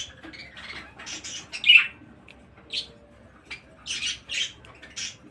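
Small pet birds giving short, high-pitched chirps and squawks at irregular intervals, the loudest call coming just under two seconds in.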